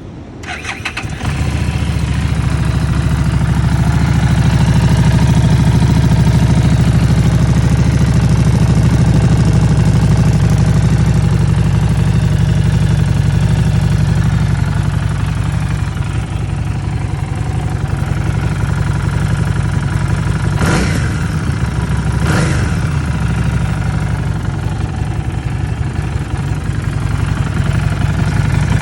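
Harley-Davidson Street 750 V-twin with a Vance & Hines aftermarket exhaust, started with a short crank and settling into a steady, loud idle. Near the end it gives two quick throttle blips about a second and a half apart.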